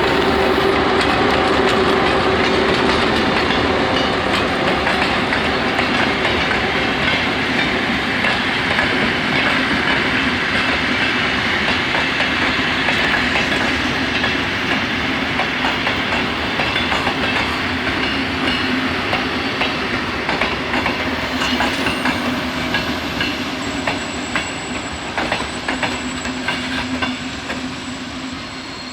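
Finnish Dr12 diesel locomotive running on the track: a steady diesel engine drone with wheels clicking over the rail joints, easing slowly. A thin high squeal comes in near the end.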